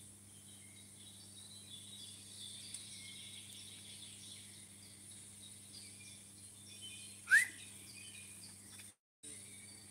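Birds chirping faintly over a steady low hum, with one loud, short rising whistled call about seven seconds in. The sound cuts out for a moment near the end.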